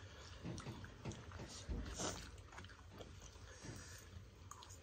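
Faint eating sounds: people chewing and taking in mouthfuls of instant noodles, with a few soft fork clicks.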